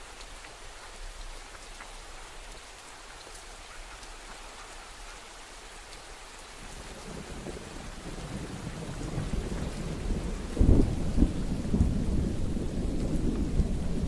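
Steady rain falling, with a low rumble of thunder that builds from about halfway through and breaks into a louder boom about three quarters of the way in, rumbling on to the end.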